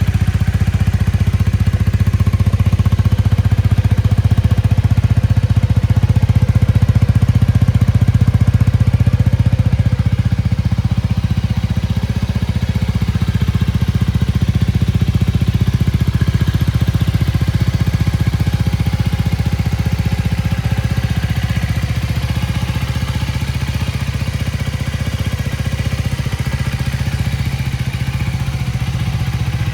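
Honda Rebel 250's single-cylinder engine idling steadily, its level easing slightly about a third of the way in.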